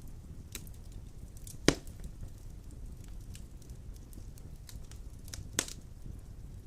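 Wood fire burning in a stone fireplace: a steady low rumble of flames with scattered crackles and two sharp pops, the loudest about a second and a half in and another just over five seconds in.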